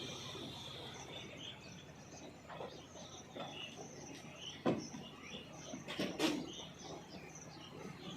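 Small birds chirping, with several sharp knocks, the loudest about four and a half and six seconds in.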